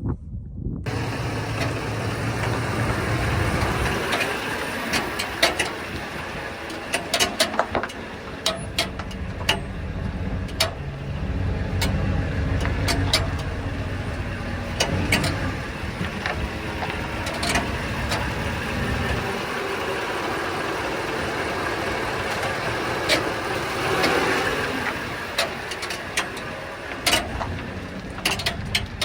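Ford E350 van running, a steady engine and road rumble that rises and falls, with sharp knocks and rattles coming every so often.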